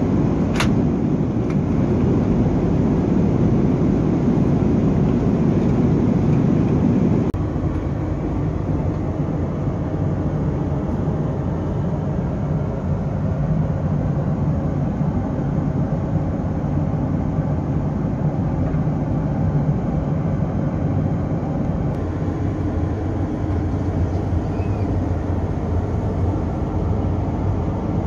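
Steady roar of an Airbus A330-300 in flight, heard inside the cabin, with a low hum under it. The roar drops a step about seven seconds in, and there is one sharp click just after the start.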